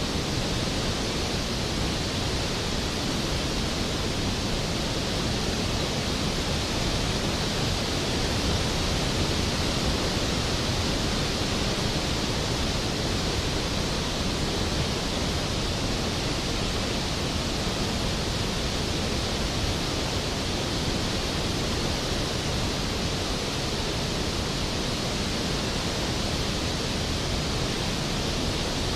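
Skógafoss waterfall: a large volume of water falling and crashing into its plunge pool, a steady, even rush of noise with no change.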